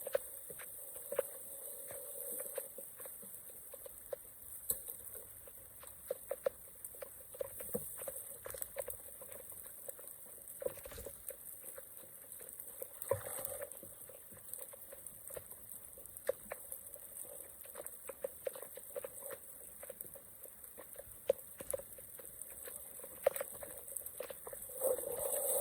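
Water dripping and pattering: faint, irregular small ticks, with a few louder ones.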